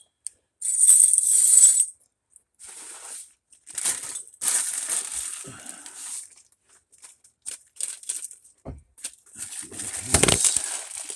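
Intermittent scraping and rattling bursts of exhaust pipe and hardware being handled and fitted. A heavy thump near the end is the recording phone falling.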